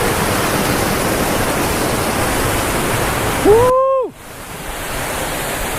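Steady rushing of a waterfall. A man gives a short "woo"-like exclamation that rises and then holds, about three and a half seconds in. The water noise drops away briefly just after the call, then comes back a little quieter.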